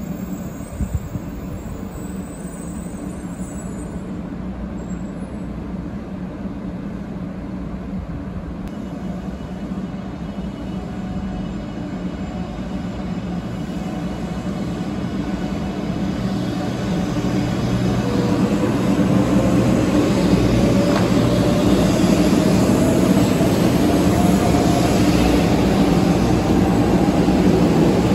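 A 500 series Shinkansen train running in along a station platform, with a steady low hum and rolling noise that grow louder as the cars come alongside. Over the last ten seconds or so, a motor whine rises steadily in pitch.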